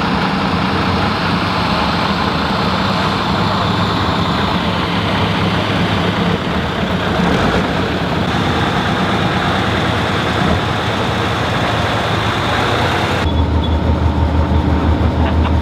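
Heavy off-road trial truck's engine running hard under load, under a dense hiss. Near the end the sound changes abruptly to a lower engine note that pulses in a fast, even rhythm.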